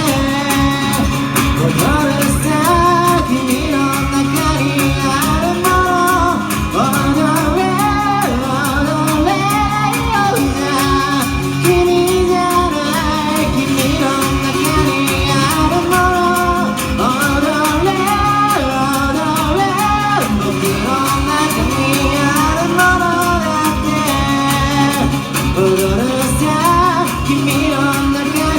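Live performance of a song: a singer's voice over instrumental backing with a steady beat.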